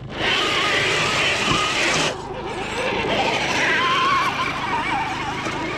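Radio-controlled Traxxas TRX-4 crawler truck driving through mud: the electric motor and gearbox whine, wavering in pitch with the throttle, over the noise of the tyres churning wet ground. The sound drops back a little about two seconds in and rises again a couple of seconds later.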